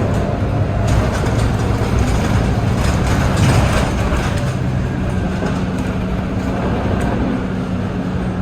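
Scania K230UB city bus's diesel engine running under way with a steady low drone and road noise, with a few light rattles.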